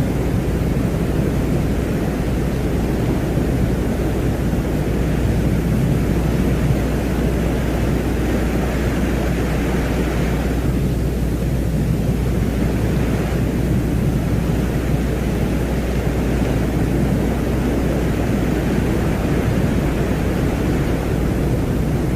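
Ambient drone presented as the sound of Venus: a steady, deep rumbling noise with a constant low hum underneath. A higher hissing band swells about a third of the way in and drops away sharply near the middle.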